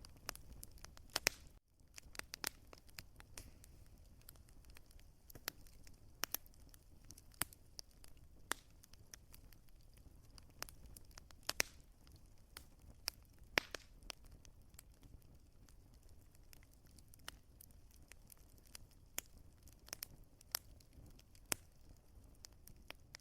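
Wood fire crackling: irregular sharp pops and snaps over a low, steady rumble of the flames. About a second and a half in, the sound drops out for a moment.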